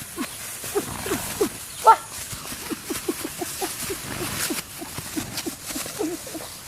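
Animal calls: a string of short cries, each falling in pitch, several a second, with one louder, higher cry about two seconds in.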